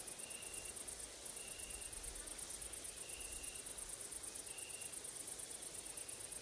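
Grasshoppers and crickets chirring in a continuous, very high, fast-pulsing buzz that breaks off briefly about a second in. A lower, short steady note repeats about every one and a half seconds.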